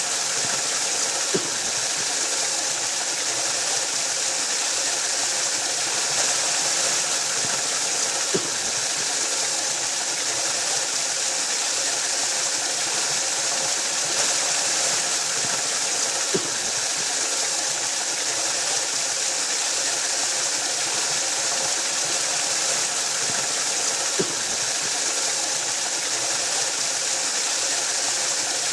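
Waterfall: a steady rush of falling water, a dense, bright hiss with no let-up. A small click sounds about every eight seconds.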